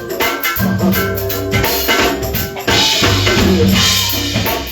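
Band music with a drum kit and bass groove, with a bright cymbal wash from about three seconds in.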